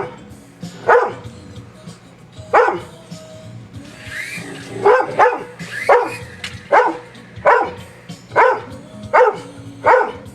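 A dog barking in short, sharp single barks, about ten of them: a few spaced out at first, then roughly one a second.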